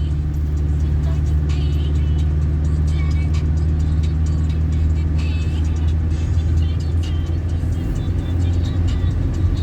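Steady low drone of a car's engine and tyres heard from inside the cabin while driving, with music playing over it.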